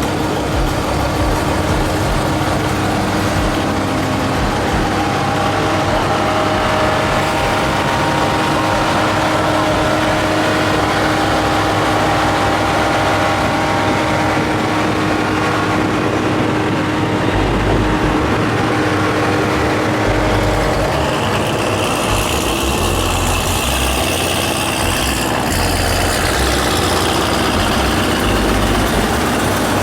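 Car engine running steadily, with a low rumble.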